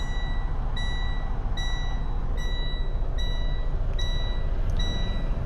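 An electronic vehicle warning beeper sounding a short high beep about every 0.8 seconds, over the steady low rumble of an idling engine.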